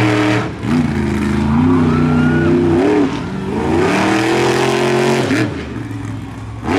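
Monster truck engine revving hard during a race run, its pitch climbing and dropping repeatedly as the driver gets on and off the throttle, with short dips about half a second in, three seconds in and near the end.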